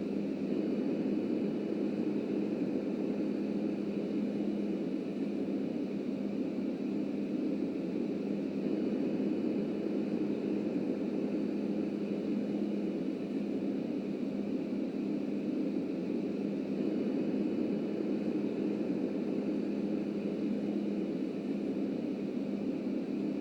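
Subway work train running: a steady rumble with a constant low hum that holds unchanged throughout.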